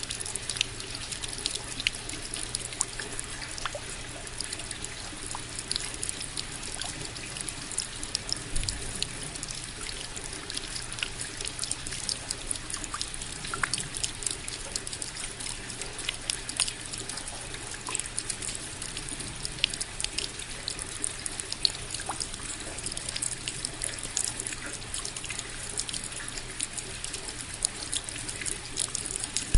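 Steady rain: an even hiss of falling water with many small drops ticking against surfaces and a trickle of running water.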